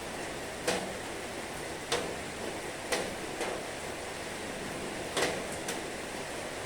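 Heavy rain falling steadily, with sharp single drops tapping on a hard surface about once a second.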